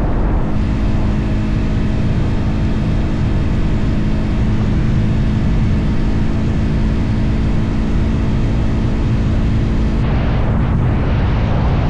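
Motorcycle engine running at a steady cruise with a constant drone, over heavy low wind rush on the microphone.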